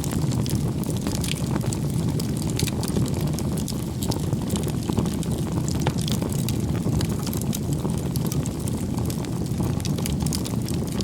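Wood campfire burning: a steady low rushing of flame with frequent, irregular sharp crackles and pops from the burning logs.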